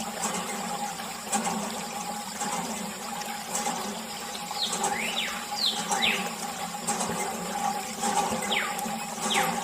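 Mini DC water pump running steadily with a constant hum, water spraying and splashing, with a few short falling chirps.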